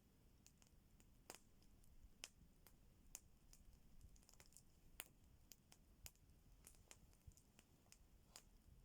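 Faint, irregular crackling of a wood fire: sharp snaps and pops, one or two a second, over a quiet background.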